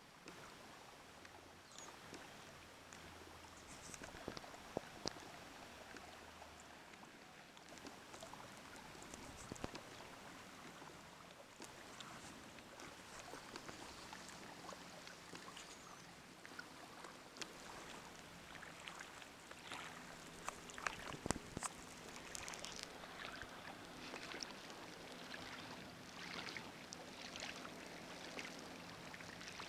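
Faint water trickling and lapping along the hull of a Hobie i12S inflatable kayak as it moves, with many small scattered clicks and drips.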